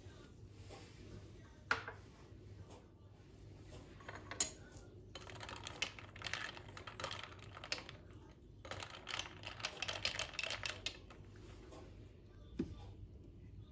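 Kitchen utensils and dishes being handled: a couple of sharp clicks, then two stretches of quick, light clattering and scraping, and a single low knock near the end.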